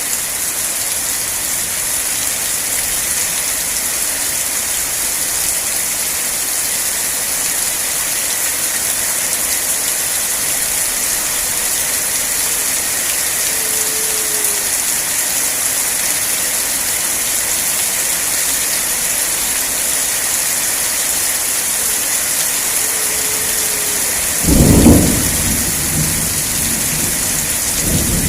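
Steady rain falling, an even hiss. A few seconds before the end comes a sudden loud clap of thunder lasting about a second and a half, and a smaller rumble follows at the very end.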